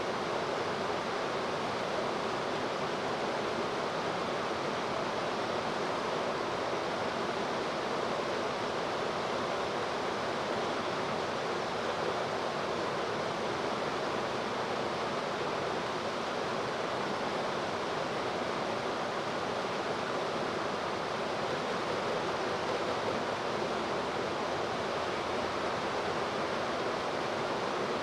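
Steady rushing of river water: an even hiss that holds at one level throughout, with no splash or bird call standing out.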